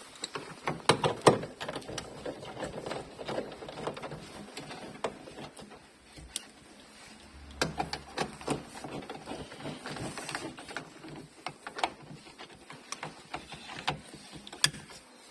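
Irregular clicks and light knocks from tools and parts being handled while a car sunroof mechanism is worked on, with a few sharper knocks about a second in, around the middle and near the end.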